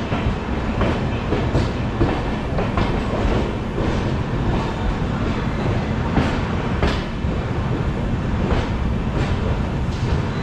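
Indian Railways passenger train rolling out of a station, heard from an open coach doorway: a steady low rumble with the wheels clacking over rail joints every half second to a second.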